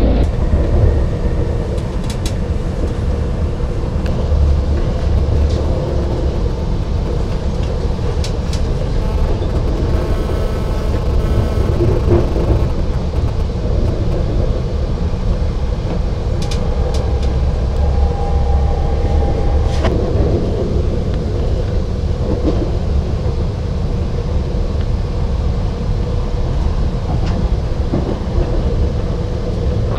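Passenger train running along the track, heard on board: a steady low rumble with a few sharp clicks from the wheels and rails.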